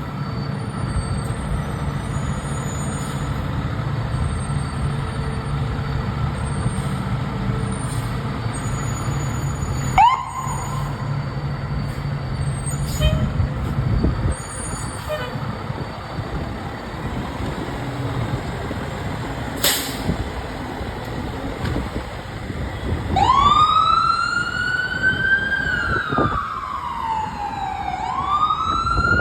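Fire truck engine idling with a low steady rumble, a brief siren chirp about a third of the way in. Near the end a siren starts wailing: it rises, falls slowly and rises again.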